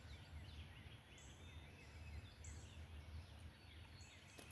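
Faint outdoor ambience: distant birds chirping in short falling notes, with a short high buzz every second or so, over a low rumble.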